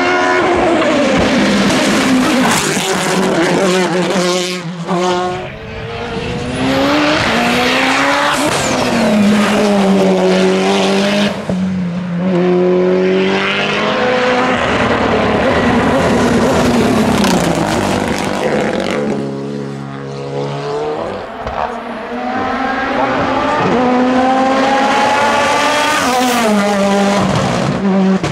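Race car engines at full throttle on a hillclimb. The engine note climbs hard and drops sharply at each gear change, again and again.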